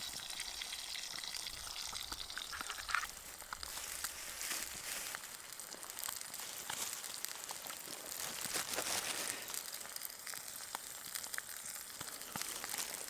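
Food sizzling as it fries over a campfire: a steady hiss with scattered small pops and crackles.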